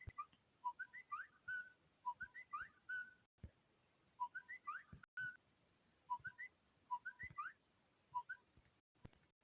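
Whistling in short, quick phrases of clear notes that jump up and down in pitch, repeated about once a second with brief pauses.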